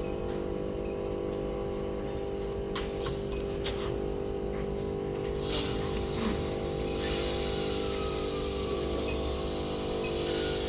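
Steady machine hum from a small steam boiler's equipment, with a few faint clicks; about halfway in a hiss joins and grows louder.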